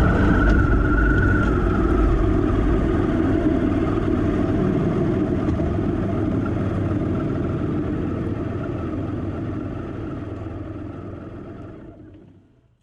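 Motorcycle engine running steadily under way, slowly fading out to silence at the very end.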